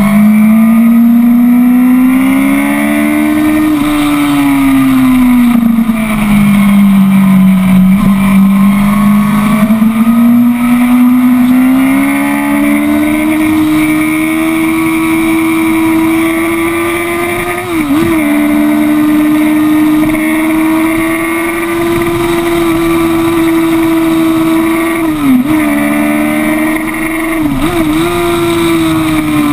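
Sport motorcycle engine running hard on a racetrack. The revs rise and fall through the corners, then climb to a long high hold on a straight, with brief sharp dips about three times near the end. Wind rushes steadily over the bike.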